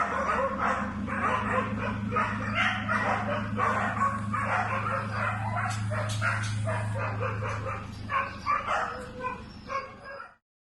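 A dog giving rapid, repeated yelps and whines, several a second, over a steady low hum; it all cuts off suddenly near the end.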